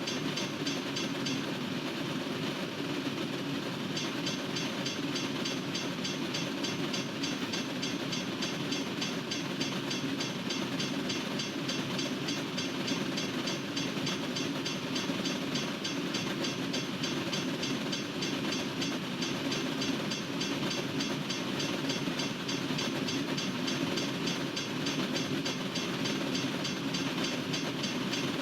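Norfolk Southern freight train's cars rolling past a railroad crossing: a steady, continuous rumble of wheels on rail.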